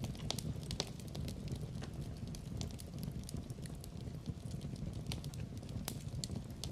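Fire burning in a fireplace: a steady low rumble with frequent sharp, irregular crackles and pops.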